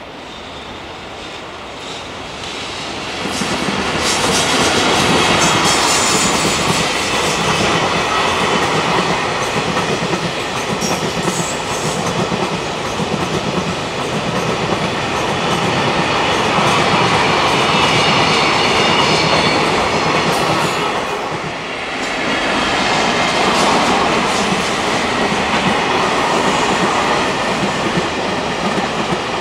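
Container freight train hauled by an electric locomotive passing close by: a steady rumble with wagon wheels clattering over the rail joints. It builds up over the first few seconds and dips briefly about two-thirds of the way through.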